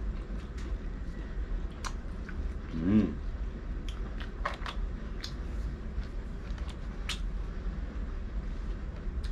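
Someone eating crisp air-fried duck close to the microphone: scattered short crunchy clicks of biting and chewing over a steady low hum. About three seconds in, a brief hummed voice sound rises in pitch.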